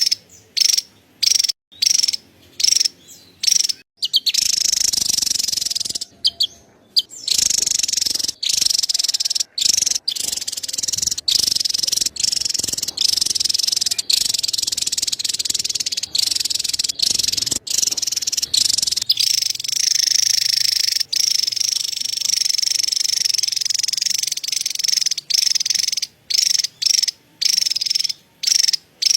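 Javan tesia giving its rapid, high-pitched chattering call, the 'cerecet', in runs broken by many short pauses, with longer unbroken stretches in the middle.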